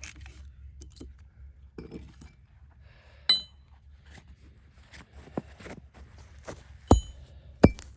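Metal striking steel splitting wedges driven into a knotty cedar log: a few sharp, ringing clinks, the two loudest blows near the end.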